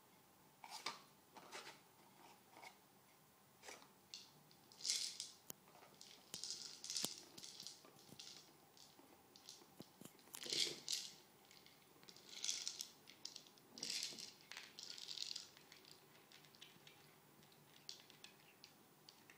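Faint, irregular rustling, rattling and clicking of cat toys being batted and pounced on, in scattered short bursts, the loudest about five and ten seconds in.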